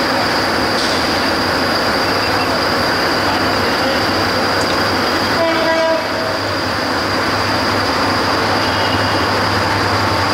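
Trains on adjacent tracks with a steady diesel rumble and rail noise. A short horn blast sounds about halfway through.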